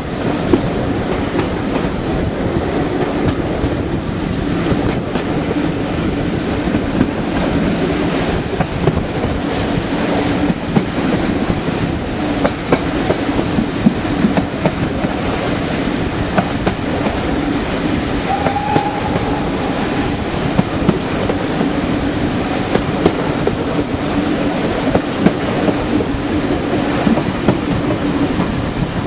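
A passenger coach running along the line at speed, heard from an open window: a steady rumble and rush of air with the wheels clicking over the rail joints. A brief high tone sounds a little past the middle.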